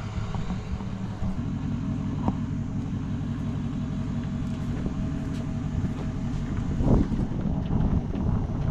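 A motor runs steadily with a low rumble that steps up a little about a second and a half in, with a brief knock and, about seven seconds in, a heavier thump.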